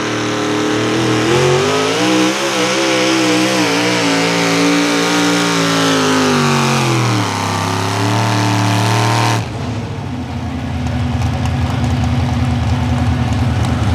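Naturally aspirated 650-cubic-inch engine of a modified 4x4 pulling truck running hard, its pitch rising and wavering, then falling away about seven seconds in. About nine and a half seconds in the note changes abruptly to a lower, pulsing rumble.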